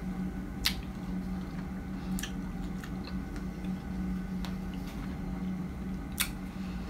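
Close-miked chewing of a mouthful of fresh strawberry: wet, squishy mouth sounds with a few sharp smacking clicks scattered through, over a steady low hum.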